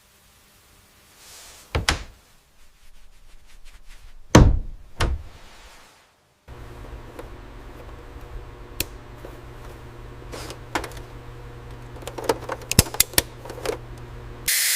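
A few separate mechanical thunks and knocks, then from about six and a half seconds in a steady low machine hum with scattered clicks, the clicks quickening near the end.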